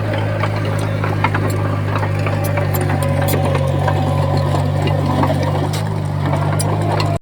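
Heavy diesel engine of a Komatsu bulldozer running steadily under work, with scattered light clicks and clinks over the low drone.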